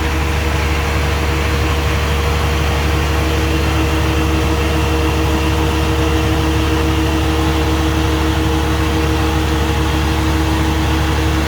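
Jet fuel truck's engine running steadily with its PTO-driven fuel pump engaged, pumping fuel through the hose: an even low drone with two steady hum tones on top.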